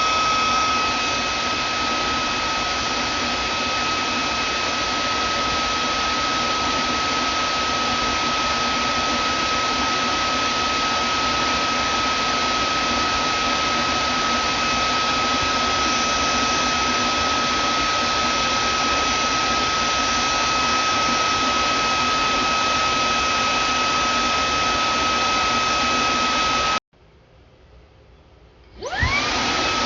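Vacuum cleaner motor running steadily, with a high whine over the rush of air. Near the end it cuts off suddenly. About two seconds later it starts again, the whine rising as the motor spins back up.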